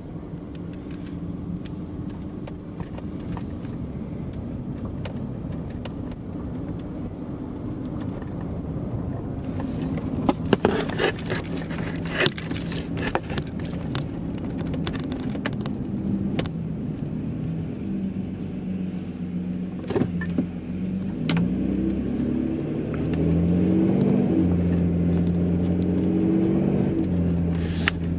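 Steady hum of a car running, with the engine's pitch stepping up and down in the last third, and scattered clicks and knocks about ten to thirteen seconds in.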